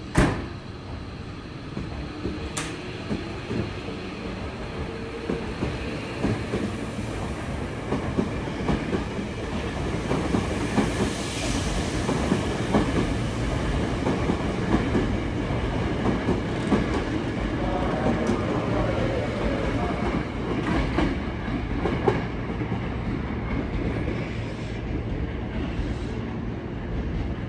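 Hankyu 8000-series electric train pulling out of the platform and gathering speed past the listener, its wheels clacking over the rail joints under a steady rumble. A sharp knock comes right at the start.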